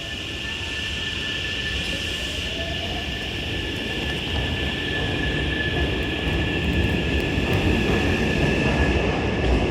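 Hankyu 9000 series electric train pulling away, its traction inverter giving a steady high whine while a lower tone rises in pitch. The rumble of the train grows steadily louder as it gathers speed.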